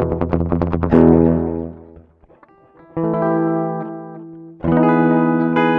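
Electric guitar played through a Digitech RP1000 multi-effects pedalboard on a preset that shifts the pitch three semitones down: fast repeated picking for about a second, a chord left ringing, a short gap, then two more strummed chords near three and five seconds in.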